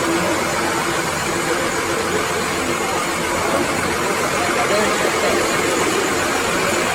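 Steady running noise of a motor vehicle, an even hiss and rumble with no distinct events.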